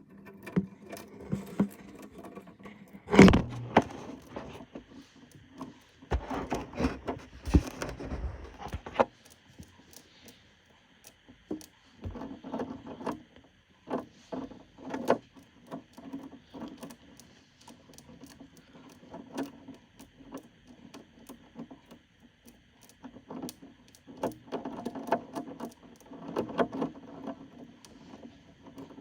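Katydid chewing on a cicada: irregular crunching clicks and scrapes, with a loud knock about three seconds in and a denser bout of crunching and scraping between about six and nine seconds.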